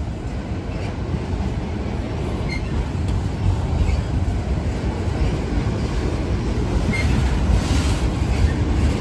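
Freight train of loaded autorack cars rolling past close by: a steady low rumble and rattle of steel wheels on the rails. A couple of brief faint squeals from the wheels, and the noise turns brighter near the end.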